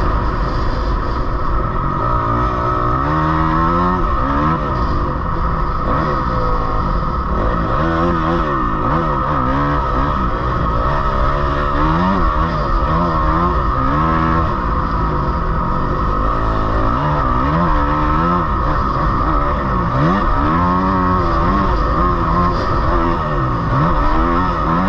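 Dirt bike engine revving up and falling back over and over as it is ridden around a motocross track. The pitch rises and drops every second or two, with the throttle opening and closing through the jumps and corners.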